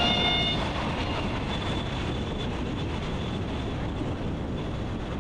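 Supercharged 6.2 L Hemi of a Dodge Charger Hellcat: the supercharger whine drops in pitch and dies away in the first half second as the throttle closes, leaving a steady engine and road rumble as the car rolls on.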